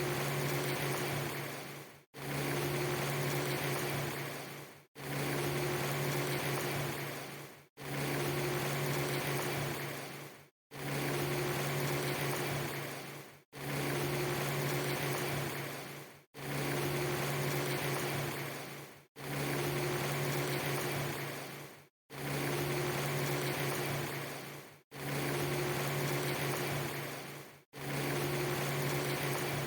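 Rain ambience loop: a steady hiss with a low hum underneath, repeating about every three seconds. Each repeat fades out into a brief silent gap before the next begins.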